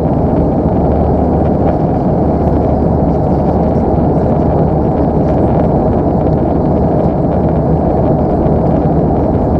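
Steady airliner cabin noise of an Airbus A319 in flight: an even rush of engine and airflow noise, heaviest in the low and middle range, with no changes.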